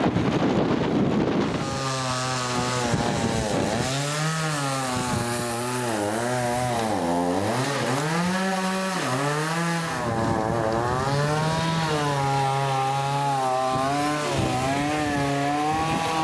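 A small engine running at high revs, its pitch dipping and rising again and again as if under load. Gusty wind noise on the microphone fills the first two seconds.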